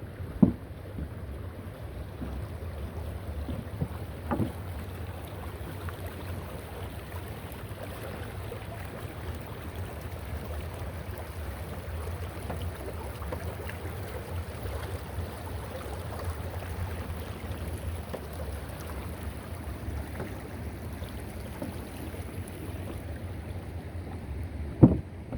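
Wind buffeting the microphone outdoors as a steady low rumble, with three short sharp knocks: one about half a second in, one about four seconds in, and one near the end.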